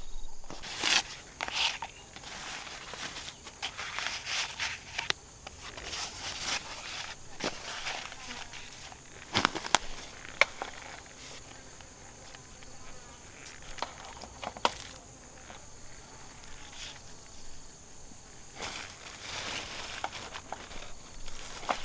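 Irregular rustling and crunching with scattered sharp clicks and knocks, over a steady high insect drone.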